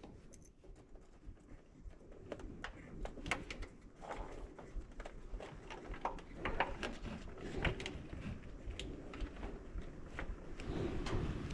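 Irregular light clicks, taps and clatter of hand work on small metal parts, growing busier about a third of the way in.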